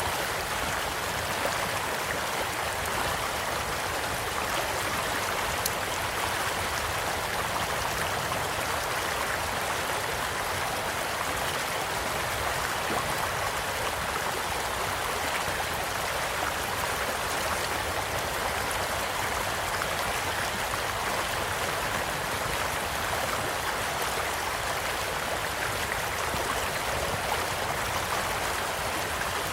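Small stream flowing steadily in an even rushing wash of water, with a few faint sharp pops from a wood campfire crackling.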